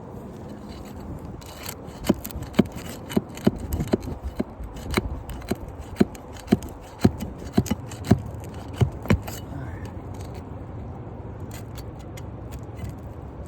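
Roofing nails being worked out of an asphalt shingle with a metal tool: a run of sharp metallic taps and scrapes for several seconds, then quieter scraping. The nails are overdriven, lying flat with the decking, which makes them hard to get out.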